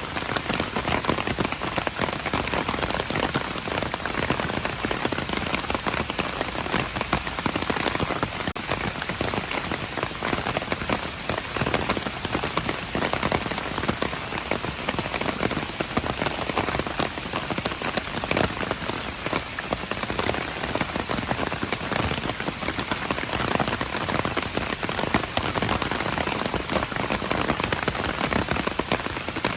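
Steady heavy rain falling on hard surfaces, a dense even hiss with many small drop ticks and patters.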